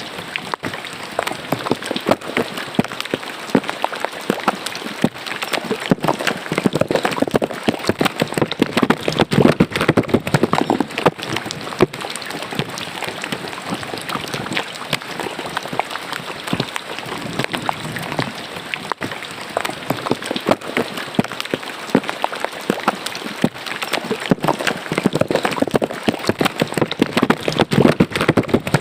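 Rain falling into a drainage ditch: a dense, steady patter of drops on the water, swelling louder twice, about a third of the way in and near the end.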